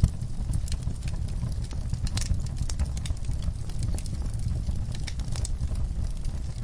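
Wood fire burning in a fireplace: irregular crackles and sharp pops over a steady low rumble, with a loud pop right at the start.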